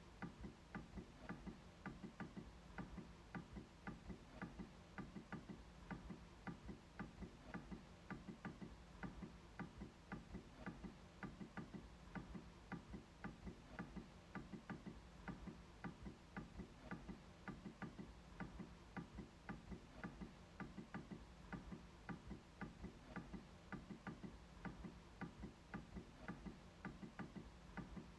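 MacBook trackpad being clicked over and over: a steady run of short, faint, evenly spaced clicks.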